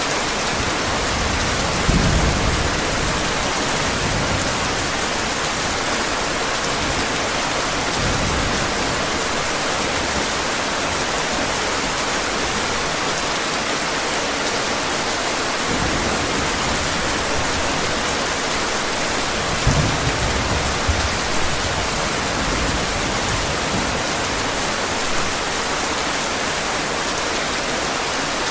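Heavy rain falling in a steady hiss, with brief low rumbles of thunder about two seconds in and again around twenty seconds in.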